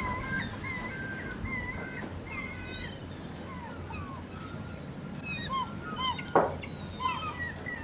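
A flock of gulls calling, many short overlapping cries, over a steady low rumble. One sudden louder sound comes about six seconds in.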